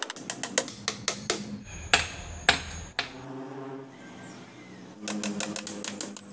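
A hammer tapping quickly at small nails in wood: a fast run of sharp taps, two louder knocks about two seconds in, and another run of taps near the end.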